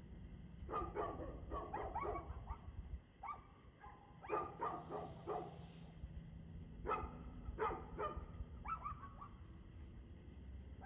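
A dog barking in quick runs of several barks, about a second in and again around four seconds in, then single barks and a short run toward the end, with pauses between.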